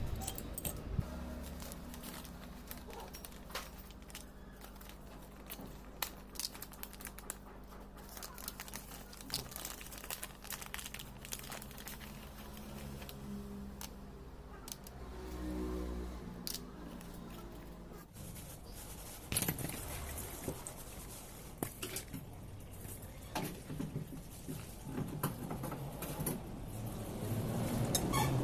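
Small metal parts and hand tools clicking and clinking in irregular, scattered taps while a diesel fuel injection pump is being assembled, over a low steady hum that cuts off about two-thirds of the way in.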